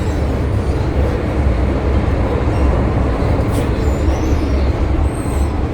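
Loud, steady rumble of an old-stock MTR Tsuen Wan line train running at speed, heard from inside the carriage, with a few faint high wheel squeals in the middle.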